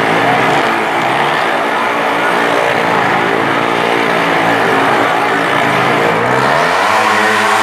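Motor vehicle engines running at a steady pitch, with one engine revving up near the end.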